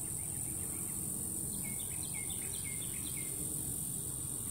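Steady high-pitched insect chorus, with a bird singing a quick run of short down-slurred notes in the middle, over a low steady background rumble.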